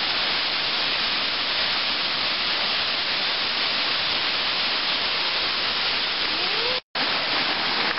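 Waterfall: the steady, loud rush of falling water. It cuts out for a split second near the end.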